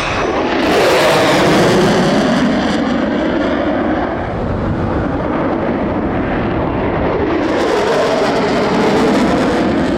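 Fighter jet's engines on a high-speed pass: a loud, continuous jet noise with sweeping tones that swells about a second in, eases through the middle and swells again near the end.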